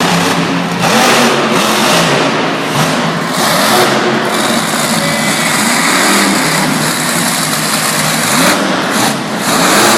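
Monster truck engine running loud and revving hard, its pitch climbing near the end.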